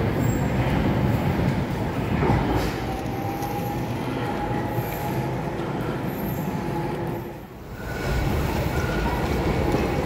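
Docklands Light Railway trains running through the station: a steady rumble of wheels on track with a faint, thin wheel squeal. The sound drops away briefly about three-quarters of the way in, then another DLR train is heard running along the viaduct.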